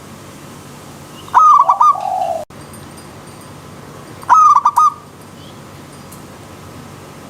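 Zebra dove (perkutut) singing: two short phrases of quick cooing notes, about three seconds apart, over the steady rush of a stream.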